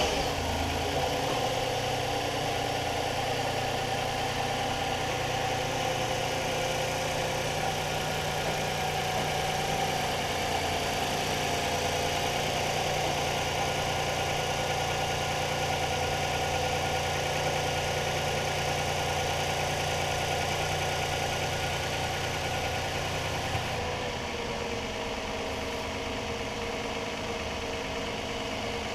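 2019 Toyota Highlander's 3.5-litre V6 idling steadily just after starting, with the idle settling a little lower about 24 seconds in.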